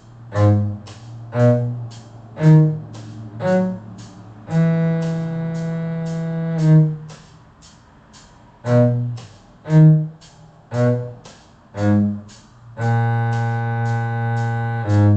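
Cello playing a slow phrase in G-sharp minor: four short bowed notes, then a long held note, played twice. A fast, steady ticking runs underneath.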